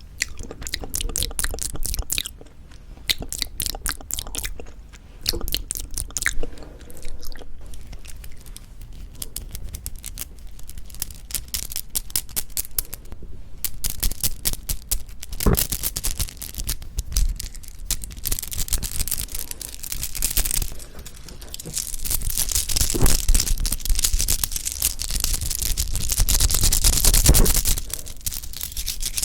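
Close-miked chewing of soft, chewy Korean rice cake (tteok), with a steady run of small sticky mouth clicks that grows denser and noisier in the second half.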